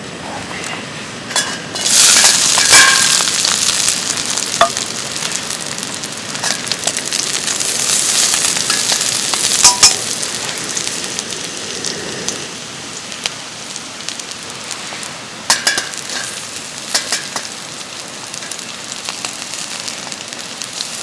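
Food sizzling in a hot pan. The sizzle starts suddenly and loudly about two seconds in, then slowly eases, with scattered clicks and scrapes of stirring.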